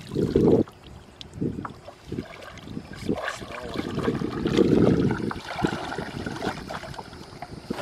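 Water splashing and trickling around a fishing kayak, with small knocks and gusts of wind buffeting the microphone.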